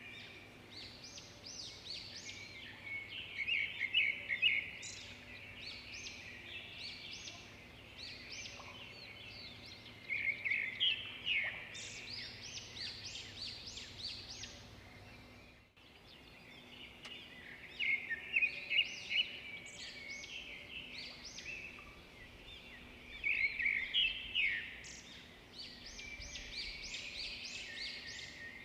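Birds singing and chirping together, a dense chorus of many short high calls overlapping. It breaks off for a moment about halfway through and then goes on.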